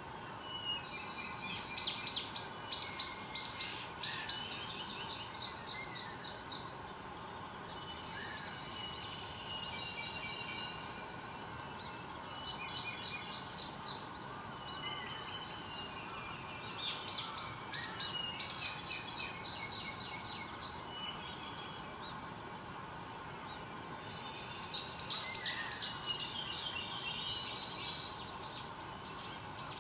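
Wild songbirds singing in bursts of rapid, repeated high down-slurred notes, about five bouts with gaps between them, with softer lower calls underneath. A steady background hum runs beneath the song.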